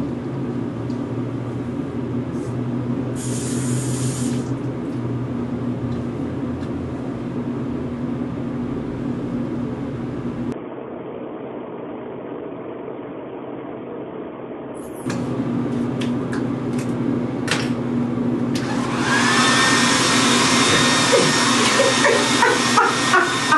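Handheld hair dryer running with a steady whirring hum. Near the end a louder, brighter burst of noise comes in, with choppy pulses over it.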